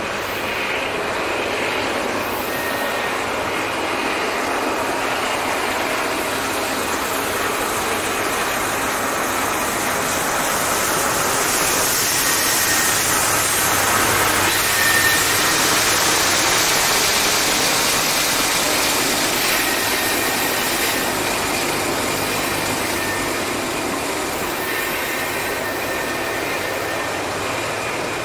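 Freight cars of a long mixed merchandise train rolling past close by: a steady rumble and clatter of steel wheels on rail, a little louder in the middle, with a few short, faint high squeals.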